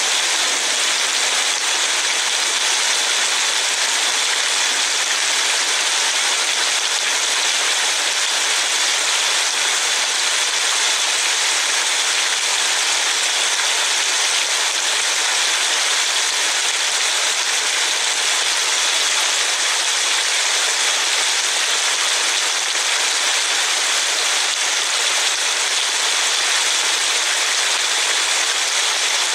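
Steady hiss of rain, heard from inside a car moving on a wet road.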